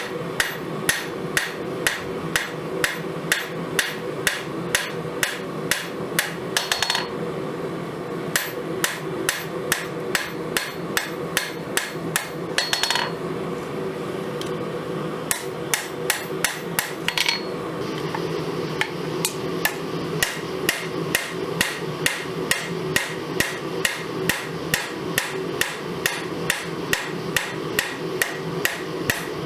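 Hand hammer striking a piece of spring steel on an anvil while forging a knife blade, an even run of blows about two a second, pausing briefly a few times.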